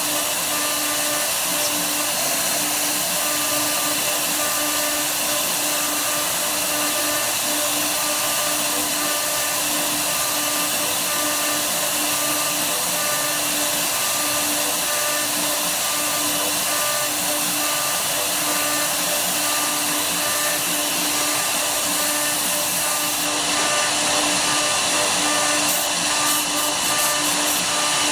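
Woodworking CNC router cutting wood: the spindle runs steadily under load, a continuous whine over a broad hiss, getting slightly louder about five seconds before the end.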